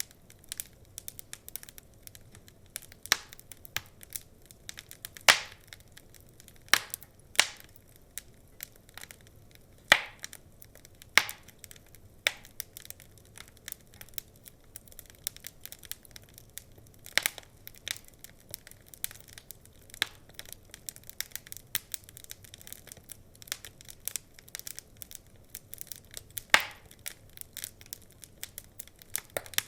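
Wood fire crackling: irregular snaps and pops, a few much louder than the rest, over a faint steady hiss.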